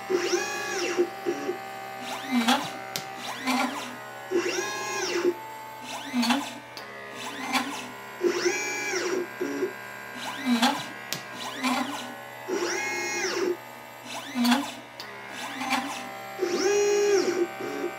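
LitePlacer pick-and-place machine's stepper motors whining as the head travels, each move rising in pitch, holding and falling again. The cycle repeats about every four seconds as it picks and places small capacitors and resistors one after another.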